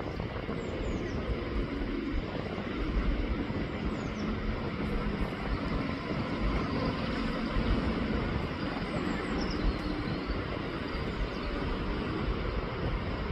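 Steady rushing outdoor noise with a gusty low rumble, and faint short high chirps from small birds now and then.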